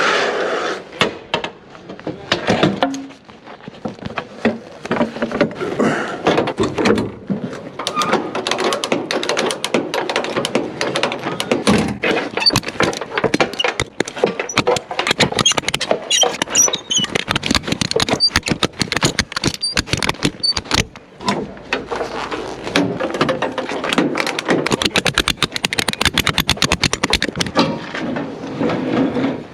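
A long run of knocks, thuds and rattles from goods and gear being loaded into a lorry's load area.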